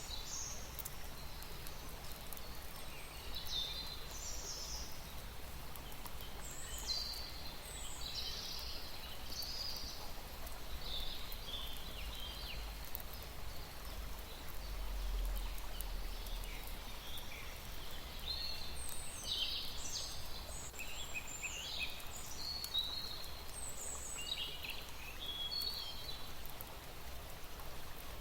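Birds calling in many short chirps, over a steady low rumble.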